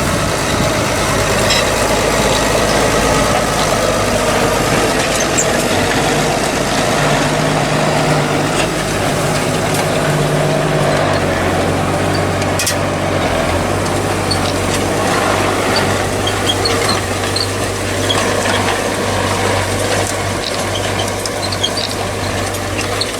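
Tractor engine running steadily while pulling a plough through the field, its low note dropping a step about eleven seconds in.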